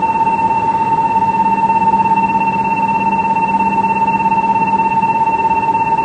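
Shinkansen platform departure signal: a steady electronic buzzer tone held unbroken for about seven seconds, then cutting off near the end, warning that the train is about to leave.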